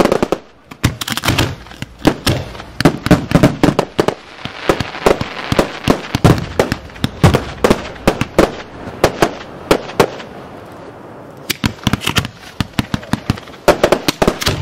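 Fireworks being fired from ground mortar racks in a dense barrage of sharp bangs and cracks, with a brief lull about ten seconds in before the volley resumes.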